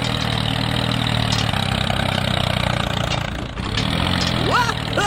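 Small engine of a DIY mini tractor running steadily, dipping briefly about three and a half seconds in, with a short vocal exclamation near the end.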